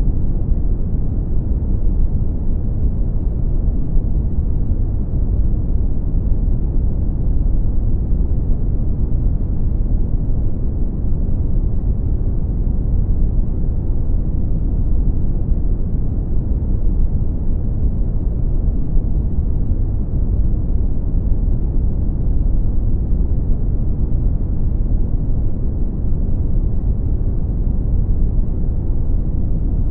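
Brown noise: a steady, deep rumbling hiss, strongest in the bass and falling away toward the highs, without any change.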